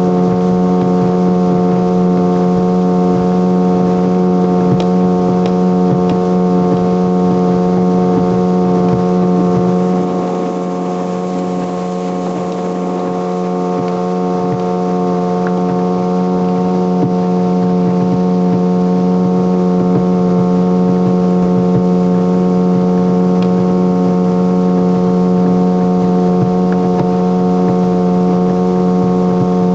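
Engine of a small home-built kit motorboat running steadily at speed, a constant droning hum over water and wind noise. The sound eases a little about ten seconds in and builds back a few seconds later.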